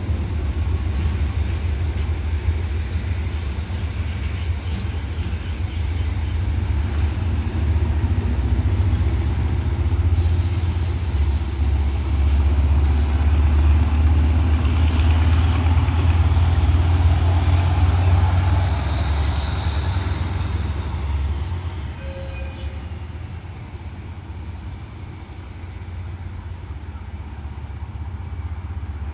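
Diesel train engine running with a deep, steady rumble as the train moves through the junction. It swells in the middle and fades after about twenty seconds, with a few short squeaks soon after.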